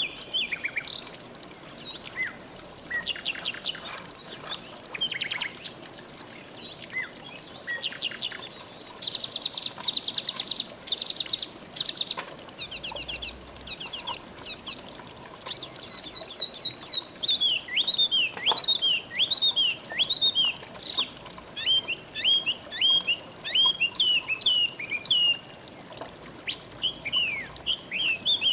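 Several songbirds singing over a steady rush of flowing river water. There are rapid high trills, and from about halfway on, a run of repeated quick falling whistled notes.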